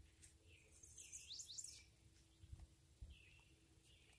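Faint birdsong: a few quick rising chirps about a second in, with softer chirps later, over a near-silent outdoor background.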